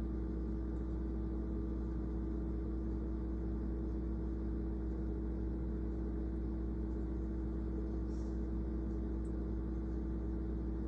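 Steady machine hum with a constant low drone and a fixed tone above it, unchanging throughout.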